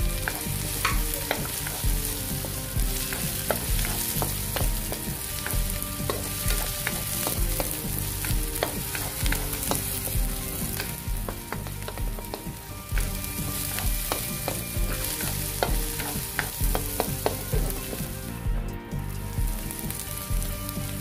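Chopped onion and ginger sizzling in hot oil in a wok. A wooden spatula clicks and scrapes against the pan now and then as it stirs them.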